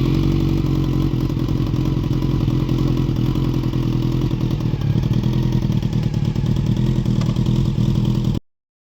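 1999 Honda CBR600F4's inline-four engine, through an aftermarket Delkevic exhaust, idling steadily with a clattering rattle that doesn't sound healthy. The owners hope a cam chain tensioner adjustment will cure it. The sound cuts off abruptly near the end.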